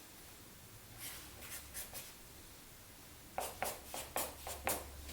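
Permanent marker scratching across MDF: a few faint strokes, then a quicker run of about seven short strokes in the last second and a half.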